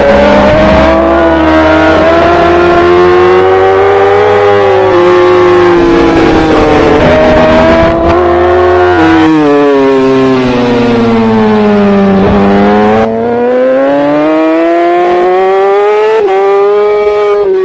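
Racing superbike engine at full song, with its pitch climbing and falling as the rider accelerates and slows. It drops in pitch for a few seconds about halfway through, then winds back up.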